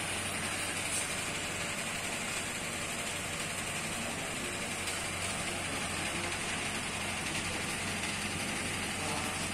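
Car engine idling steadily: an even low hum under a constant hiss.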